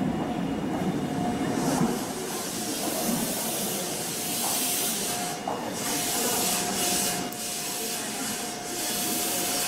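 Meitetsu 1200 series electric train rolling slowly into the platform and stopping. A low rumble fades within the first two seconds, then air hisses from the train in long spells, with a thin steady tone underneath.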